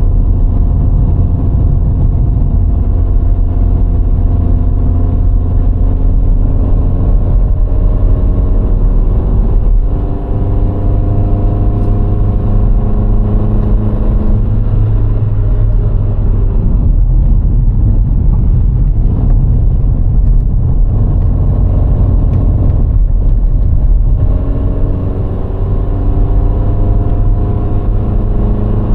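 VW Golf IV 1.6 petrol four-cylinder engine pulling under way over a heavy low road and wind rumble, its note climbing as the car gathers speed. Twice the engine note breaks off briefly and starts climbing again from lower: an upshift.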